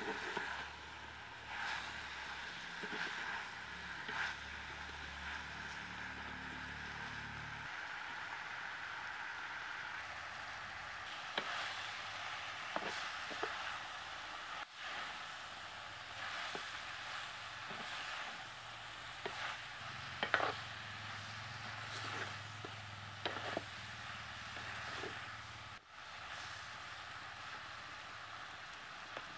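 Dried shrimp, capsicum and tomato sizzling in coconut oil in a clay pot while a metal spatula stirs them. The steady sizzle is broken by scattered clicks and knocks of the spatula scraping and tapping against the pot.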